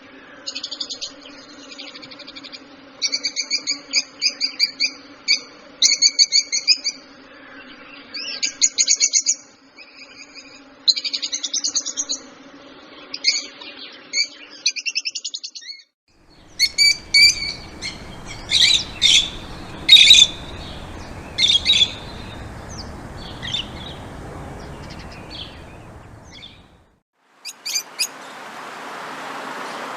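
Songbirds chirping in repeated short, high phrases over a steady low hum, then, after a brief break about halfway through, a different recording of louder, sharper calls over a background hiss, with another short break and change near the end.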